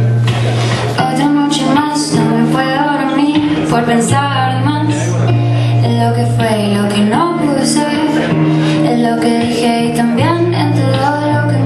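A song: a woman's voice sings a wandering melody over sustained low chords.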